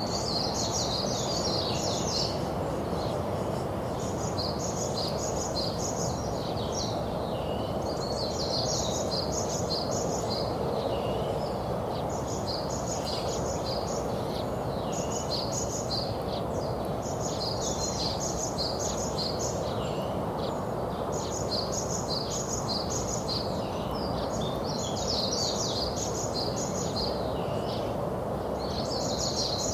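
Black skimmer chick giving high, rapid peeping chirps in short runs of several notes, repeated every two to three seconds, over a steady rushing background noise.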